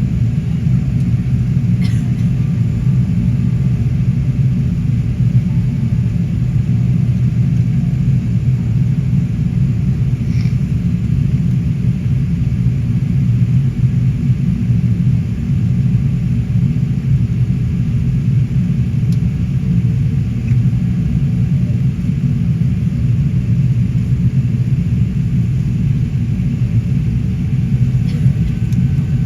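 Steady low rumble of a Qantas Airbus A380 with its Rolls-Royce Trent 900 engines running, heard from inside the passenger cabin. The level holds even, with no rise or fall.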